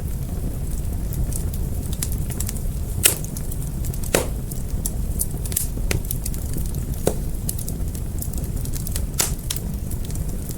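A fire crackling, with a steady low rumble under scattered sharp pops. The loudest pops come about 3 and 4 seconds in.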